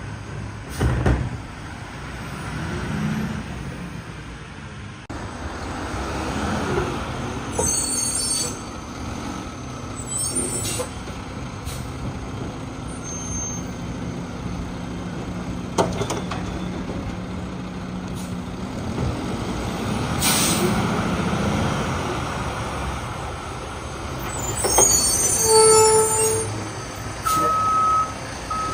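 Boivin Evolution side-loader garbage truck with a Heil RevAmp arm, its diesel engine running while it collects bins. A few sharp knocks are heard, and the air brakes hiss several times. A backup alarm starts beeping near the end.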